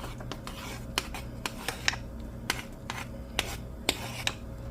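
A utensil clicking and scraping against a pot while stirring instant mashed potatoes: scattered sharp taps at irregular intervals over a steady low hum.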